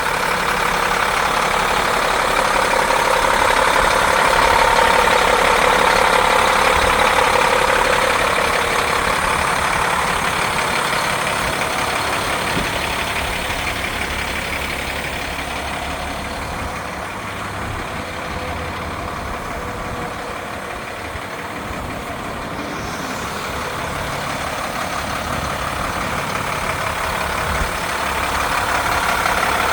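2009 International WorkStar 7400 dump truck's diesel engine idling steadily. It fades somewhat in the middle and grows louder again near the end.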